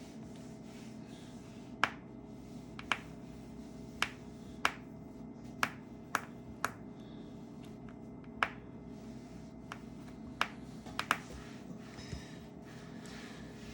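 A small precision screwdriver clicking sharply and irregularly, about a dozen times, against a tiny phone screw that will not come undone.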